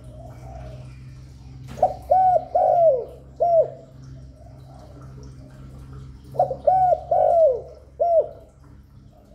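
Spotted dove cooing: two phrases of about four arched coos each, a few seconds apart, with softer murmured coos between them. It is the courtship-and-territory song that keepers use to draw wild doves to a caged decoy.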